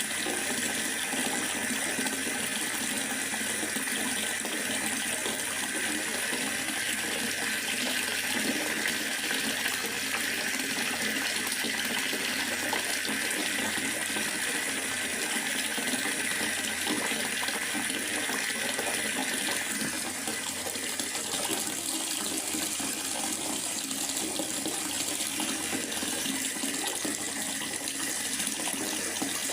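Steady rain falling in a forest, an even hiss of rain without pause that eases a little about two-thirds of the way through.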